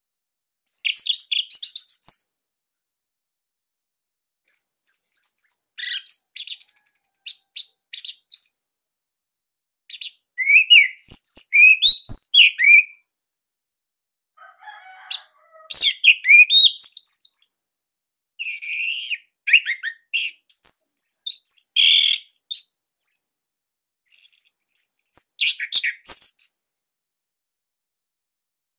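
Orange-headed thrush singing: about six bursts of fast, high-pitched chirps and warbling whistles, with short pauses between the phrases.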